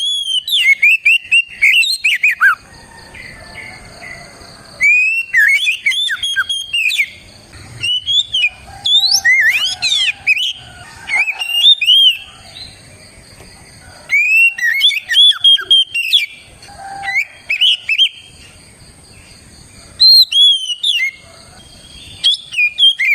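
Oriental magpie-robin (kacer) in full, vigorous song: loud bursts of rich whistled notes that slide up and down, separated by short pauses.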